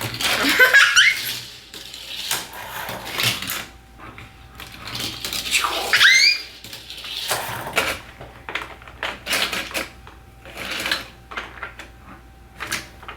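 Small plastic toy trains clicking and clattering along a plastic stunt track, in irregular bursts. A child's high rising squeal comes twice, near the start and about six seconds in.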